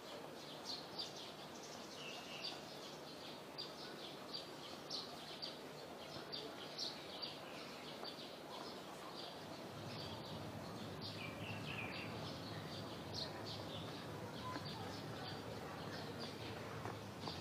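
Small birds chirping in quick, scattered calls over a soft steady outdoor hiss, with a short falling call about two seconds in and again about eleven seconds in.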